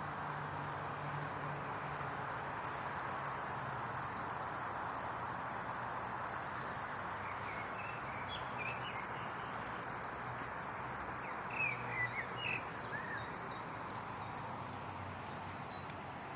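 Outdoor ambience: a steady hiss with an insect's high-pitched buzz from about three seconds in until about eleven seconds, and a few short bird chirps in the second half.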